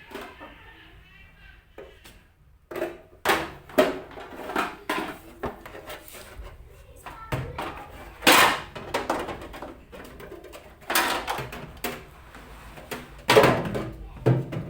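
Plastic fridge shelves and drawers being handled and slotted back into a fridge: a string of irregular knocks and clatters, with the loudest about eight seconds in and near the end.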